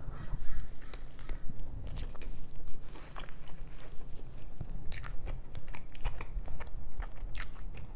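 A person chewing and biting food, with mouth sounds and a few sharp crunchy clicks, mostly in the second half.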